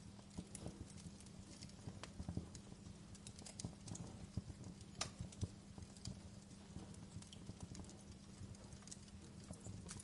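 Wood fire crackling in a fireplace: irregular small pops and snaps over a low, steady rumble, with one sharper pop about five seconds in.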